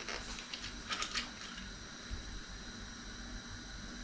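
Light clinks and knocks of kitchenware being handled, a couple of them about a second in, over a low steady hum.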